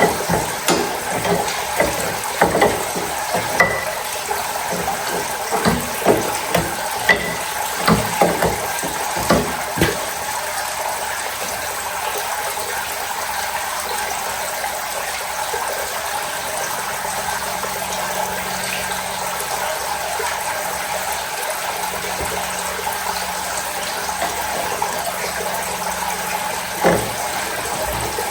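Water rushing steadily out of a loosened gauge fitting in a pressure washer's plumbing. Metal tool clanks and knocks come in quick succession over the first ten seconds, and one more near the end.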